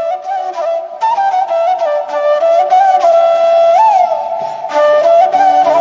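Background music: a solo flute playing a slow melody with ornamented slides and bends in pitch.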